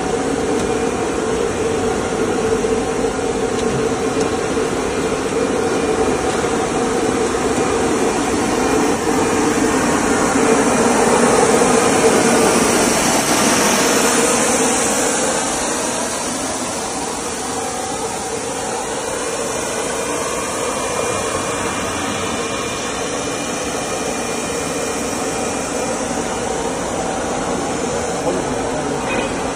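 Plastic hose extrusion line running: a steady mechanical hum and whir, a little louder around the middle and then easing off.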